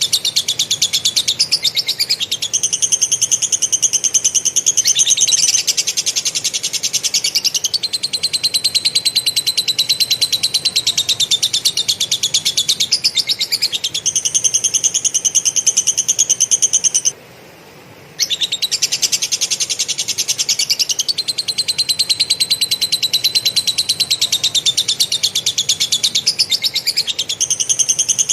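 Cucak jenggot (grey-cheeked bulbul) singing a fast, dense, high chattering trill in the style of a lovebird, shifting between a lower and a higher pitch. It pauses for about a second partway through, then carries on.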